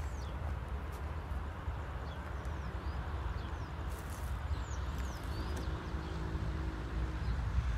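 Steady low rumble of a diesel freight train, with birds chirping faintly.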